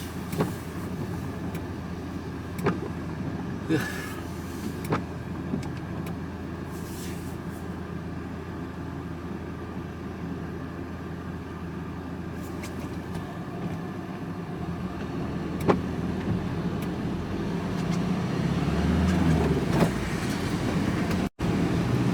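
Engine and road noise inside a vehicle's cab while driving, steady, with a few sharp clicks in the first few seconds and a louder, deeper rumble building near the end.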